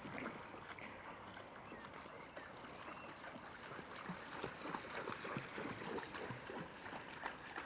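Dogs wading through floodwater, faint irregular sloshing and splashing that grows a little busier from about four seconds in.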